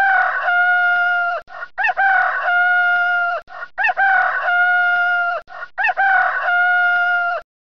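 Rooster crowing cock-a-doodle-doo four times in quick succession, each crow about two seconds long with a long held note that drops at the end.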